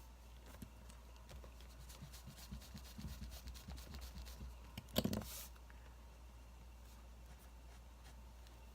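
Pen writing on paper: a run of small scratchy strokes and clicks, then one louder rustle about five seconds in, over a faint steady hum.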